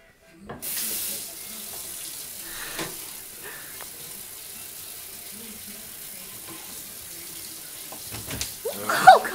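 A steady rushing hiss begins about half a second in, with a brief voice near the end.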